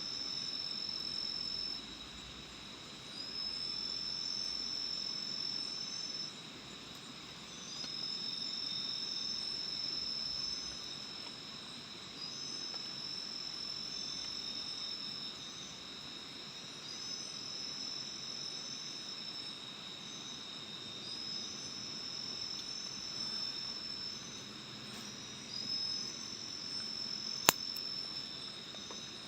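Insects calling: one repeats a high, even call about three seconds long every four to five seconds, over a steady high drone from others. A single sharp click comes near the end.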